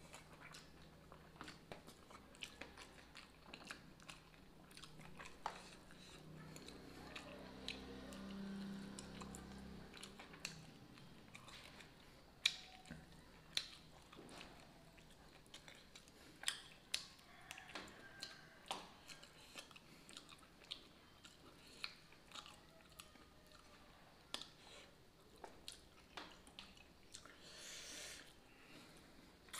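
A man chewing mouthfuls of rice and fried fish eaten by hand, with many short, sharp clicks and crunches scattered throughout. A low steady hum sits under the first ten seconds or so.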